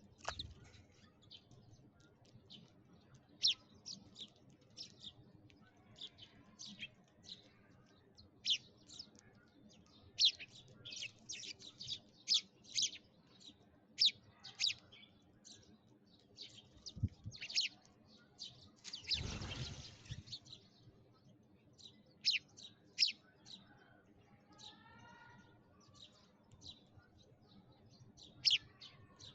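Sparrows chirping: many short, sharp chirps at irregular intervals, with a brief rush of noise a little past the middle.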